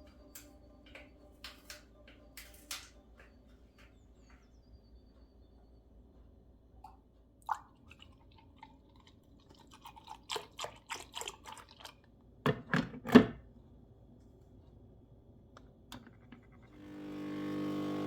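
Light clicks and taps of objects being handled, with a run of knocks about ten seconds in and two louder thuds a few seconds later. Guitar music fades in near the end.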